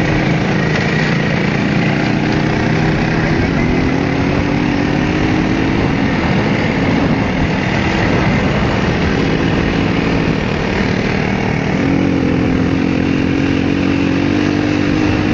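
Minsk motorcycle's single-cylinder two-stroke engine running steadily, its pitch drifting gently down and then rising a little about twelve seconds in.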